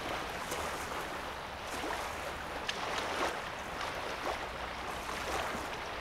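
Small lake wavelets lapping and splashing at a sandy shoreline, in irregular little splashes about once or twice a second, over a steady low rumble.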